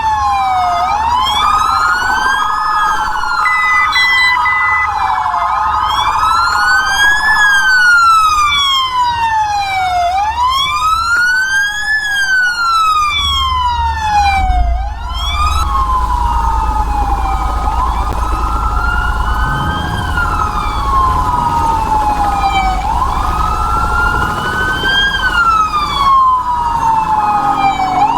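Police car sirens in wail mode, at least two overlapping, each sliding slowly up and down in pitch every few seconds. A low rumble of engine and road noise rises under them about halfway through.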